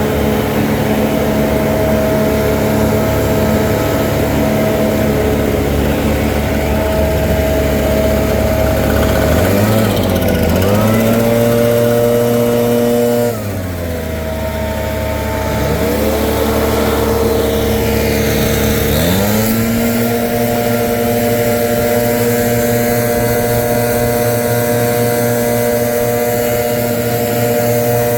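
Leaf blower running at high throttle. It is eased off briefly about ten seconds in, drops to a lower speed at about thirteen seconds, and revs back up to full speed about six seconds later.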